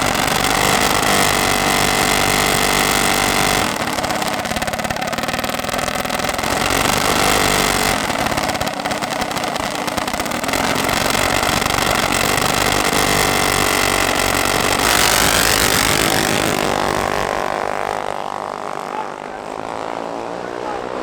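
Mini bike engine running hard at high revs, its pitch stepping up and down as the bike accelerates. It eases off and winds down over the last few seconds.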